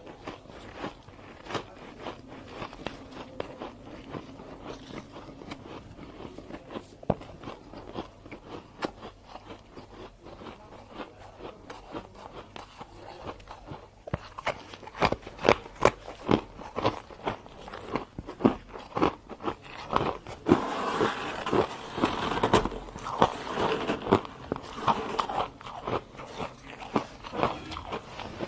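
Freezer frost being bitten and chewed close to the microphone: sharp, crisp crunching and crackling. It is fairly quiet at first and grows louder and denser from about halfway through.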